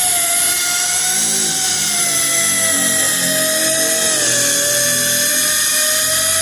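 An 8-inch, 5,000 RPM sanding machine with a 36-grit disc running with a steady high whine while it takes material off a car door. Its pitch sags a little midway, then recovers.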